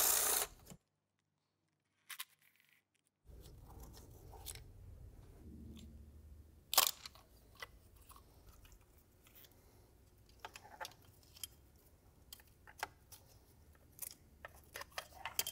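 Scattered sharp clicks and small plastic snaps of hands working electrical connectors and plastic covers on an engine, with one loud click about seven seconds in. Near the start the sound drops out completely for about two seconds.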